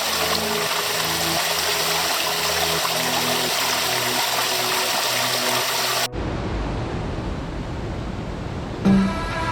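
Rushing water, like a stream or waterfall, with soft held music notes underneath. About six seconds in it cuts off abruptly to a duller, lower rumbling noise, and electronic music with a beat starts near the end.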